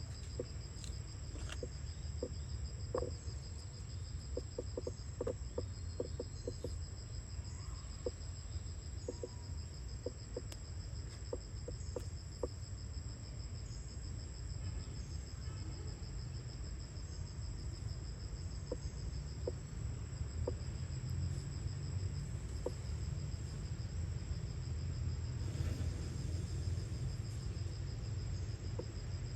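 Insects trilling steadily in a high, continuous chorus, over a low rumble, with scattered short clicks through the first half.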